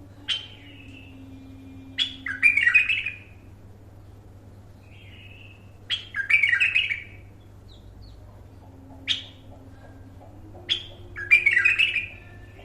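A bulbul singing: three short, bubbly, warbling phrases about four seconds apart, each opening with a sharp falling note, with single sharp call notes in between.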